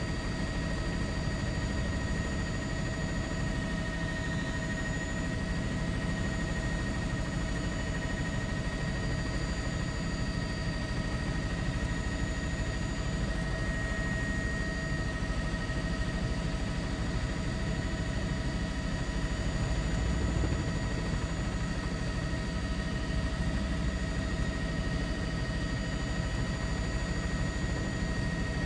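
News helicopter running in flight: a steady low drone from the engine and rotor, with a constant high whine over it.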